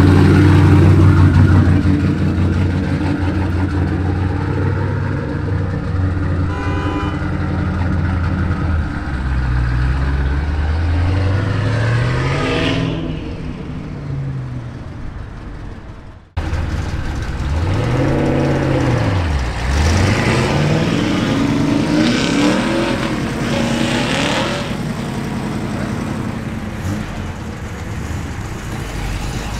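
Cammed, twin-turbo C5 Corvette Z06's LS6 V8 running loud at idle, then revving up as it pulls away and fading off. After a cut, its revs swing down and back up and climb again as it drives off.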